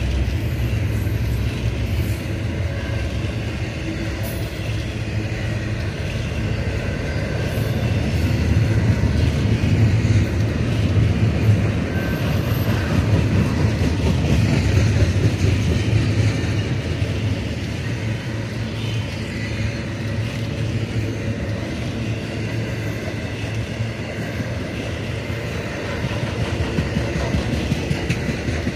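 Double-stack intermodal freight train's loaded container well cars rolling past: a steady low rumble of steel wheels on the rails, swelling a little from about eight to sixteen seconds in.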